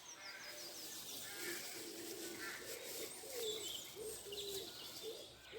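Woodland birdsong: a pigeon cooing in short, repeated low notes, with small birds chirping and trilling higher up.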